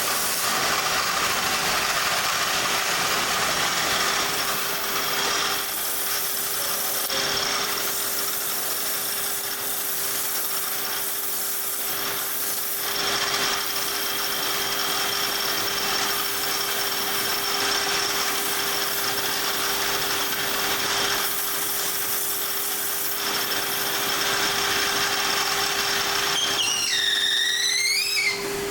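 Workshop power tool running steadily, a continuous hissing grind over a steady hum. A wavering squeal rises and falls near the end.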